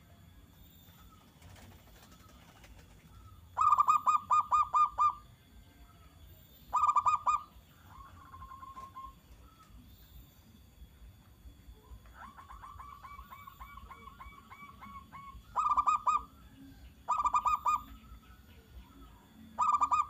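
Zebra doves (perkutut) cooing in runs of fast, clipped, repeated notes. There are five loud runs, the first about four seconds in and the last at the very end. Between them come fainter, longer runs of the same notes.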